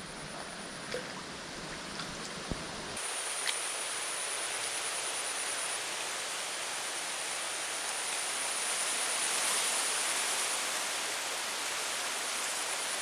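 Steady hiss of rain falling, with a thin high steady whine above it and a few faint ticks in the first seconds.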